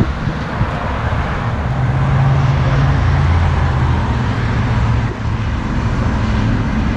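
A car engine running close by, a low steady hum that grows louder about two seconds in and eases back after about five seconds, over road-traffic rumble.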